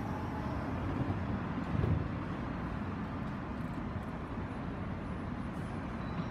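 Odakyu 8000 series electric train starting to pull out of a station: a steady low rumble, with a single low thump about two seconds in.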